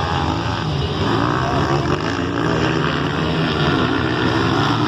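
Several motocross bikes racing on the track, their engines revving up and down over one another in a steady mix.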